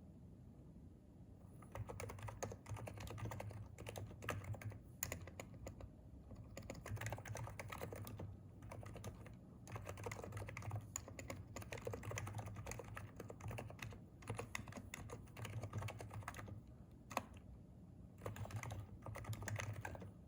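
Typing on a Hansung keyboard with electrostatic capacitive switches: runs of rapid keystrokes with short pauses, starting about two seconds in. A single louder click stands out a little past the middle.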